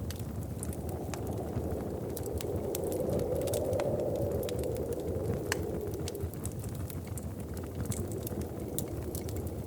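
Wood fire crackling, with irregular sharp pops over a steady low rush that swells for a couple of seconds in the middle.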